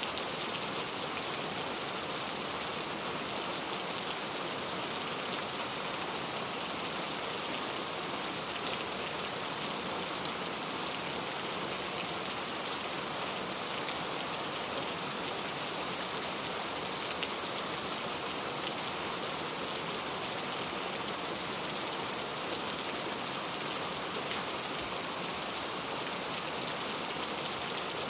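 Steady rain falling: a dense, even hiss with fine patter of individual drops.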